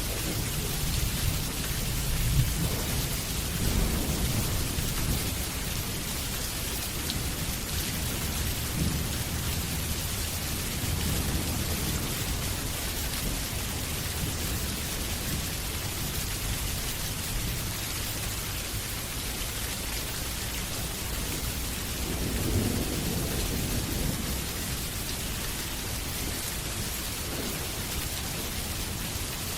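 Steady heavy rain falling, with low rolls of thunder: one early in the stretch and another a little over twenty seconds in.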